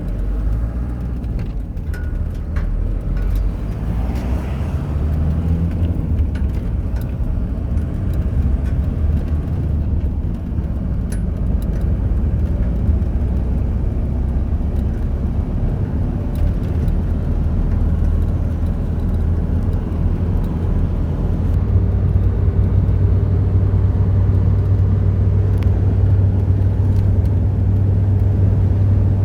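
Car driving, a steady low engine and road drone; about two-thirds of the way through the low hum shifts and grows stronger.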